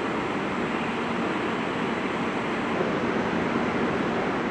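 Steady rushing noise of a CRH high-speed train rolling slowly over station trackwork, with no distinct wheel clicks.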